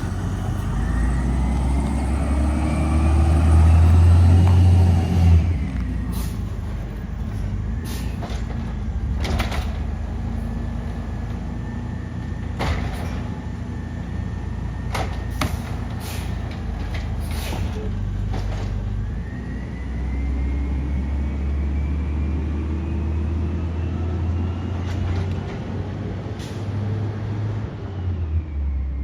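Garbage truck engine revving up twice, its pitch climbing for several seconds each time as it drives the hydraulics. Sharp clanks and knocks come in between.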